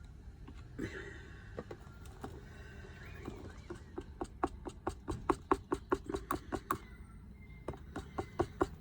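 A stirring stick knocking against the inside of a cup as paint is mixed: a few scattered knocks, then from about halfway a quick, even tapping of about four or five knocks a second that grows louder.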